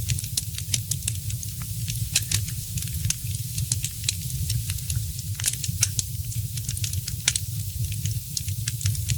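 Fireplace fire crackling, with irregular sharp snaps and pops, several a second and a few louder ones, over a steady low rumble.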